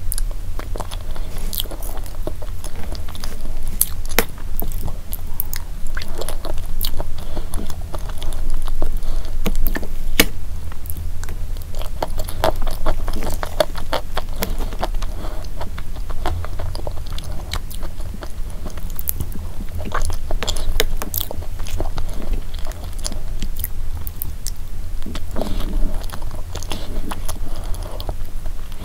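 Close-miked chewing and wet mouth sounds of eating a soft pistachio cream dessert, with many irregular smacks and clicks. A plastic spoon scrapes now and then in the plastic dessert box.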